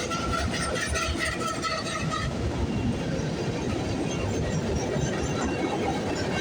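Freight cars of a CPKC mixed freight train, gondolas among them, rolling past at track side: a steady rumble and clatter of steel wheels on rail. There is high metallic ringing for about the first two seconds.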